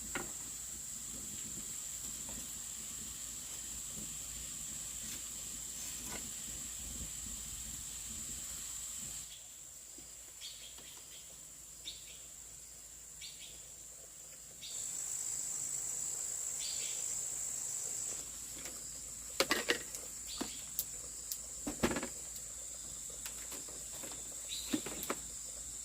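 Insects, crickets or cicadas, keep up a steady high-pitched drone that drops out abruptly for several seconds partway through. Several sharp clicks and knocks come near the end.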